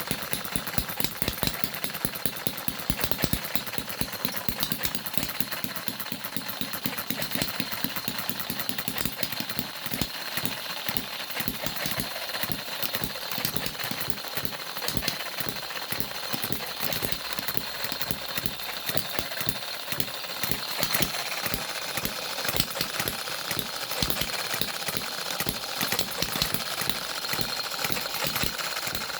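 Six-cycle engine running, with a steady rhythm of sharp beats a few times a second and a faint high whine that grows a little stronger about two-thirds of the way through.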